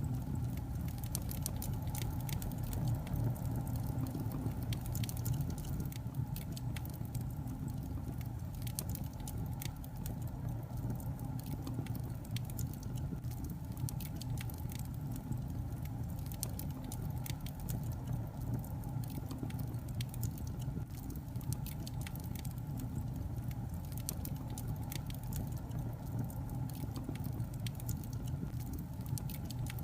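Log fire in a fireplace crackling, with many small irregular pops and snaps over a steady low rumble of the flames.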